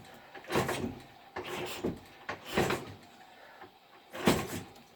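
Soviet K-750M motorcycle's side-valve flat-twin being kick-started over and over, four strokes each turning the engine over briefly without it catching. The engine has sat dead for 26 years and is on the point of its first firing.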